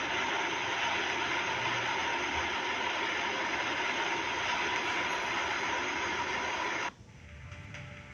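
Steady rushing noise of an airliner heard inside the cabin, engines and airflow together, cutting off suddenly about seven seconds in.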